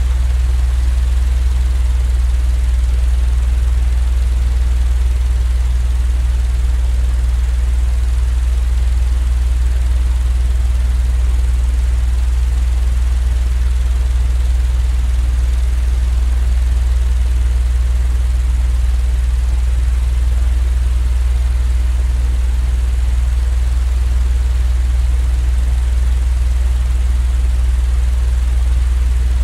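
Steady, unchanging low droning hum of a running machine, heaviest in the bass with a faint even hiss above, used as continuous sleep noise.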